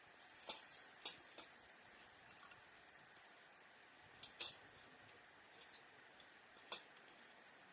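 Wood campfire crackling: a few sharp snaps and pops, spaced irregularly, over a faint quiet hiss.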